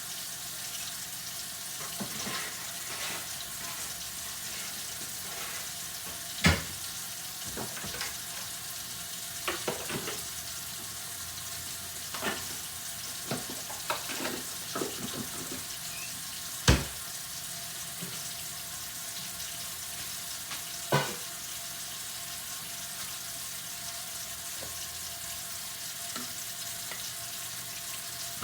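Kitchen tap running into a sink as dishes are washed by hand, a steady hiss of water with scattered clinks and knocks of dishes and utensils. The sharpest knocks come about six and a half, seventeen and twenty-one seconds in.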